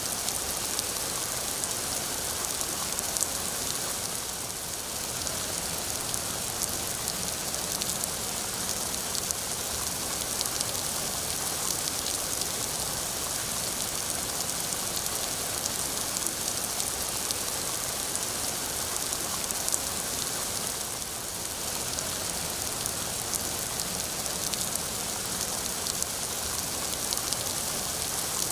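Steady rain falling, a dense hiss with fine drops pattering, easing off briefly twice.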